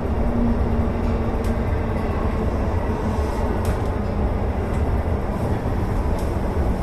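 Electric commuter train running on the rails: a steady low rumble with a faint motor whine that fades out in the first second, and a few light clicks from the wheels over the track.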